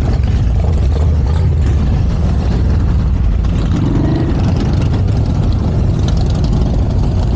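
Motorcycle engines running in a loud, steady low rumble, with a short rise in pitch about four seconds in.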